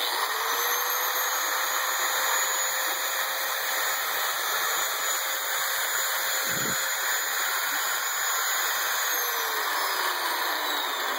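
DeWalt angle grinder switched on and running unloaded at full speed with a steady high whine, then winding down with falling pitch over the last couple of seconds after it is switched off.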